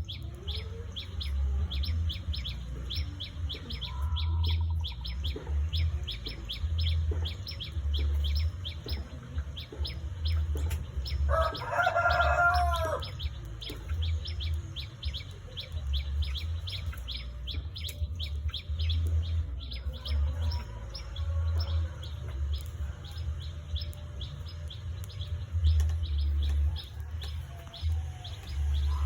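Small birds chirping, with a fast run of short, high repeated notes throughout and a louder, drawn-out call about twelve seconds in, over an uneven low rumble.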